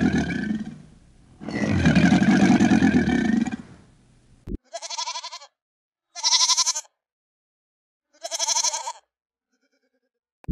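Two long, deep calls, then three sheep bleats, each well under a second, high and wavering, with pauses between them.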